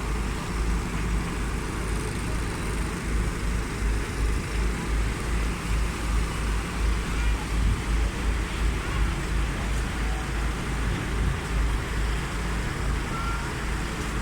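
Steady engine and vehicle drone, with an uneven, pulsing low rumble beneath it.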